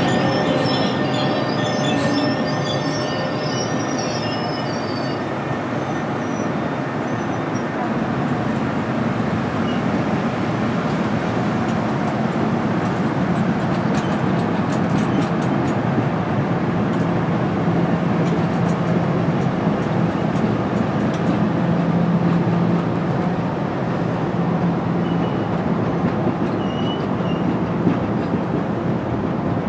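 A train rolling past close by with a steady rumble; a high wheel squeal fades out about five seconds in, and a low steady hum joins the rumble in the second half.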